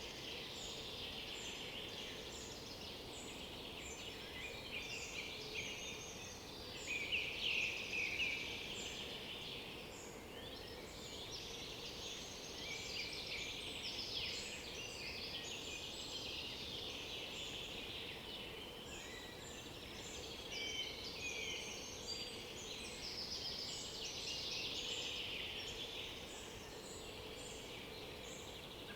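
Chorus of several woodland songbirds singing over one another, with many overlapping chirps and trills and a louder bout of song about seven seconds in.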